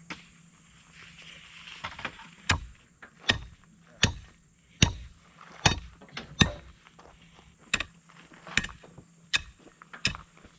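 Gravel crunching in a steady rhythm, about ten sharp crunches, roughly one every 0.8 s, with a short pause midway.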